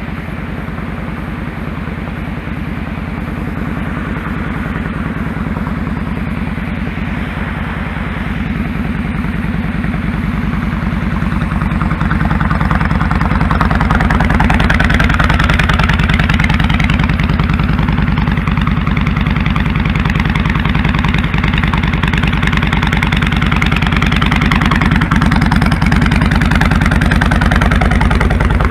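2001 Kawasaki Drifter 1500's V-twin engine running steadily on the move, heard from the rider's position. It grows louder over the first dozen seconds, and a rushing noise builds alongside it from then on.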